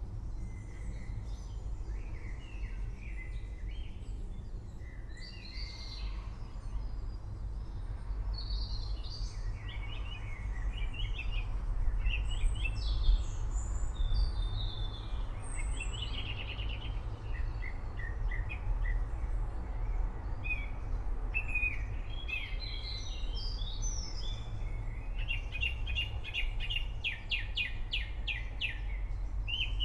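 Several songbirds chirping and calling in short overlapping phrases over a steady low rumble. Near the end one bird gives a fast, evenly spaced trill.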